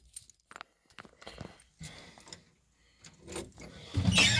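A key ring jangling, with scattered small clicks and light knocks.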